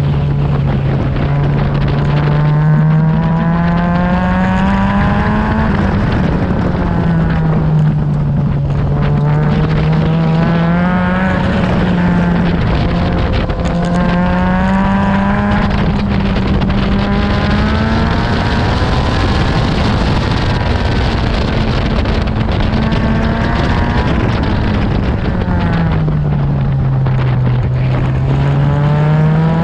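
Honda K24 inline-four in an Exocet at full effort on a road course: the engine note climbs for several seconds at a time and then drops back, about five times, as it accelerates, shifts and slows for corners. Wind rush sounds throughout.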